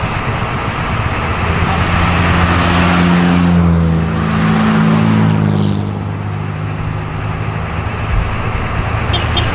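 Vintage race car engines running as cars pass by. One passes close, loudest around three to five seconds in, its pitch shifting as it goes past.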